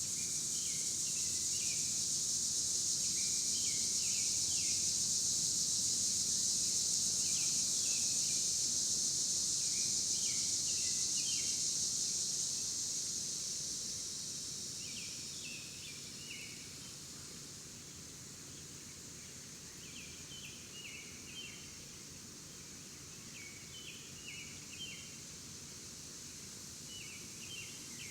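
A loud, high insect drone that fades away about halfway through, with a songbird repeating a short chirped phrase every couple of seconds.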